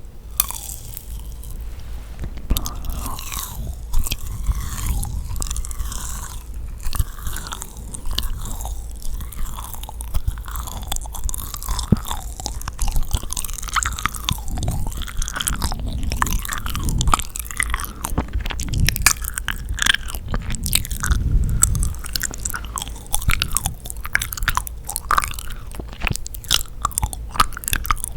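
Biting and chewing of yakgwa, sticky honey-soaked Korean fried pastry, heard as a steady run of wet, sticky mouth clicks and smacks.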